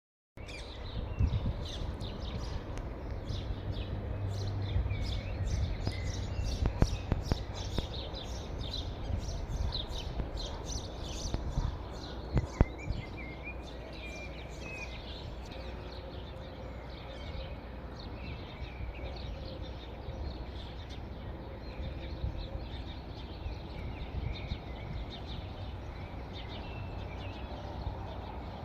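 Birds chirping in quick repeated notes, densest in the first half, over a steady low outdoor rumble, with a couple of sharp knocks.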